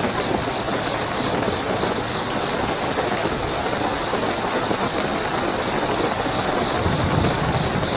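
Steady heavy rainfall with a continuous high-pitched cricket trill over it. A low rumble swells near the end.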